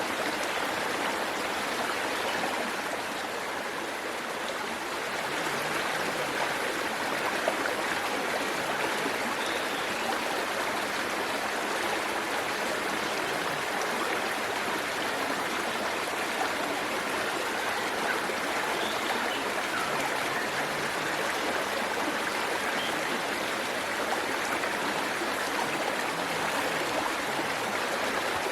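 A waterfall and stream rushing in a steady, even wash of water noise.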